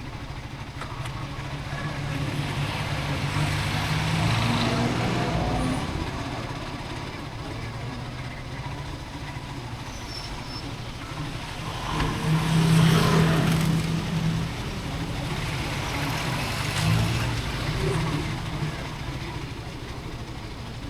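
Motorcycle engine running on the move, with wind and road noise; the engine note swells louder twice, about four seconds in and again around the middle, as the bike speeds up.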